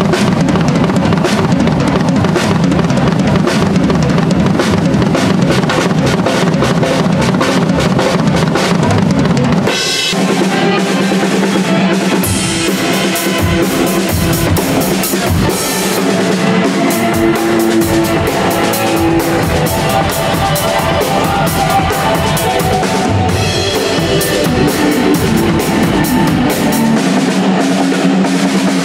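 Rock band warming up before a sound check, the drum kit loudest with bass drum and snare. About ten seconds in, the sound changes as other instruments join with held notes over the drums.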